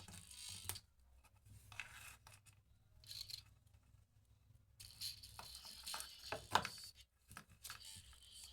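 Small plastic clicks and scrapes of a Bluetooth neckband's housing being handled and opened with a small tool, in irregular short bursts, the sharpest click about six and a half seconds in.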